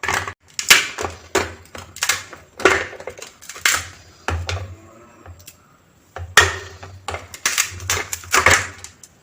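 Hard, set pieces of peanut candy (kadala mittayi) being pried loose and handled: a run of irregular clicks and clattering knocks, with a quieter stretch around the middle.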